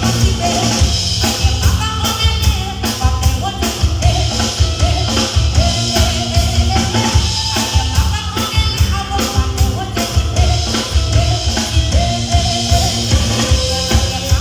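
Live band music with a drum kit and a strong bass line keeping a steady beat under a singing voice.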